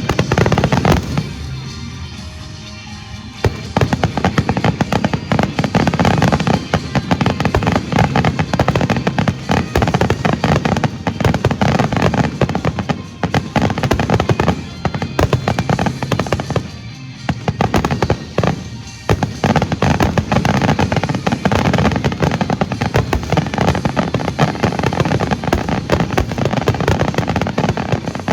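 A fireworks show: a loud burst at the start, a short lull, then a dense barrage of rapid firework explosions and crackling that keeps going with only brief dips.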